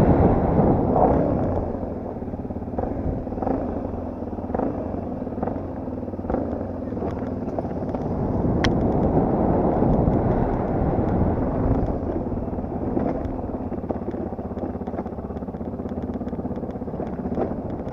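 Yamaha TT250R trail motorcycle's single-cylinder four-stroke engine running under way off-road, loud at first and easing off about two seconds in. Many sharp clicks and ticks of clatter are scattered through the engine sound.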